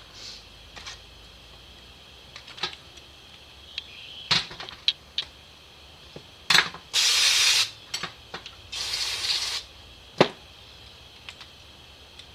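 Two short bursts of hissing spray, each under a second, among scattered clicks and knocks of tools and small metal parts being handled.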